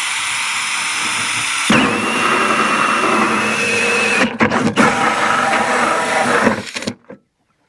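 Power drill driving a hole saw through the plastic wall of a 5-gallon bucket: the drill is already spinning, the saw bites into the plastic about two seconds in with a steady whine, eases off briefly twice, and stops near the end.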